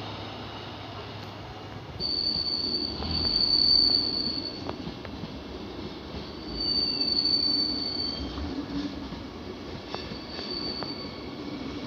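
Train wheels squealing on the rails as a train moves slowly through the station: a high, steady squeal that comes three times, loudest about two to four seconds in, over the low rumble of the train, with a few clicks.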